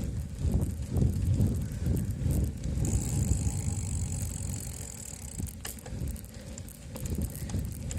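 A bicycle ride heard from a handlebar-mounted camera: gusty wind buffeting the microphone over the rumble of the tyres on the ground, with one sharp click a little past halfway.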